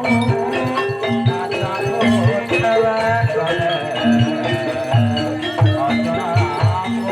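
Campursari gamelan music: struck metallophones play a melody over regular low drum strokes, with a gliding melodic line above.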